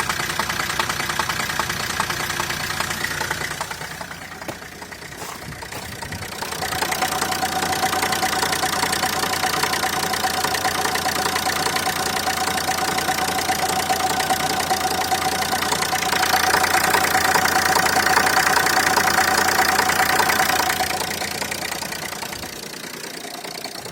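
Renault Scenic 2 engine running with a knock from a pulley in its accessory drive. It dips quieter early on, then picks up and is loudest for several seconds past the middle before easing off.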